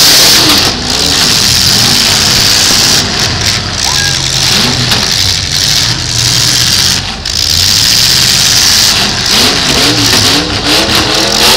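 Demolition derby cars' V8 engines revving hard as they push against each other, the pitch rising and falling again and again over a dense, loud roar.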